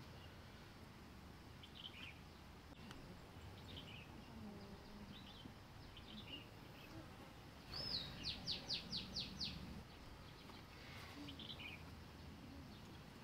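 Birds chirping faintly outdoors, with short high chirps roughly every second over a soft background hum. Just before 8 s a louder bird call sounds: one curved note, then a quick run of about six notes.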